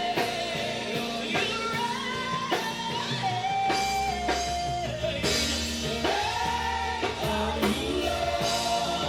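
Live gospel praise band playing with a singer holding long sung notes, over drum kit and guitar.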